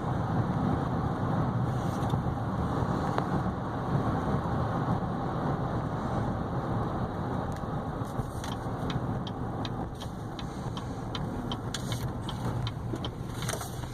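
Inside the cabin of a 2015 GMC Yukon Denali XL cruising down the road: a steady rush of tyre and wind noise over a low engine hum. It eases a little about eight seconds in, when a run of faint, quick ticks begins.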